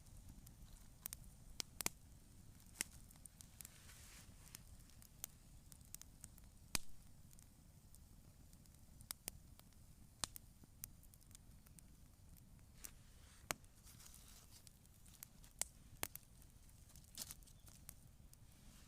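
Wood campfire crackling, with irregular sharp pops and ticks over a low steady rumble; one pop about seven seconds in is louder than the rest.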